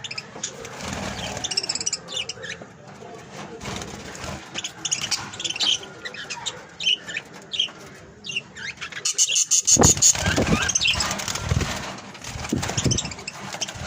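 Budgerigars chirping and chattering in many short calls, growing louder and busier about nine seconds in.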